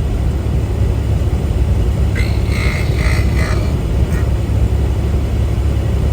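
Steady low rumble of a semi truck's engine and road noise heard inside the cab while driving. About two seconds in comes a brief run of high-pitched squeaks lasting about a second and a half.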